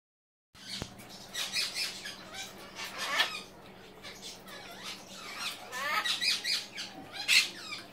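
A pet parrot making several short squawking calls that imitate a pig's oink.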